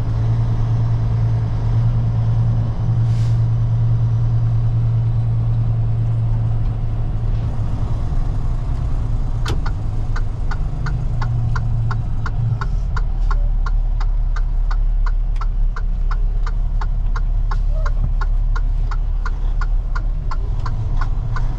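Heavy tow truck's diesel engine running steadily, heard from inside the cab while driving, with a brief air hiss about three seconds in. From about ten seconds in, the turn signal ticks steadily, about two to three ticks a second, as the truck signals to pull over.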